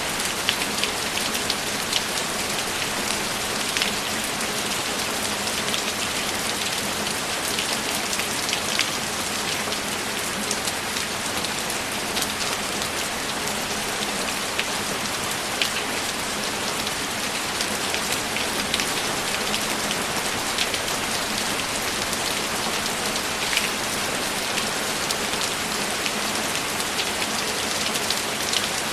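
Steady rainfall: an even hiss of rain with individual drops ticking sharply and irregularly through it.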